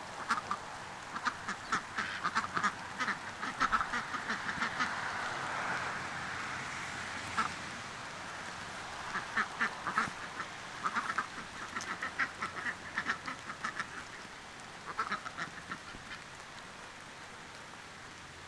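Ducks quacking in bouts of quick, repeated calls, several runs with short pauses between, over a steady background hiss.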